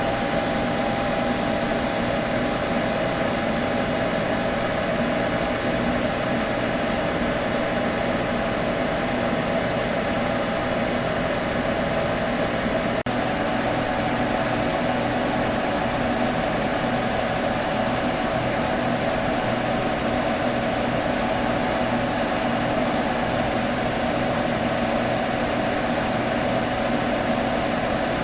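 Computer humming steadily, a constant fan-and-motor drone with a strong midrange tone, broken by a split-second dropout about halfway through.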